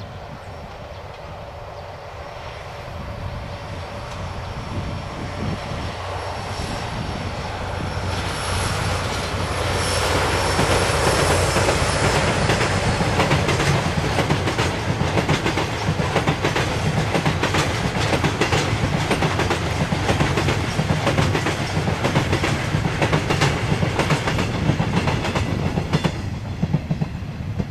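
Freight train of covered hopper wagons behind two KE65 diesel locomotives rolling by, wheels clicking over rail joints. It grows louder through the first ten seconds, then stays loud.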